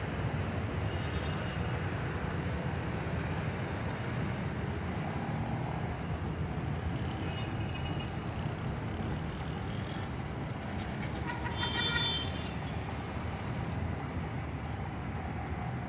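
Distant rail and city noise: a steady low rumble from a passenger train moving through the station yard, with two short horn toots, one about eight seconds in and one about twelve seconds in.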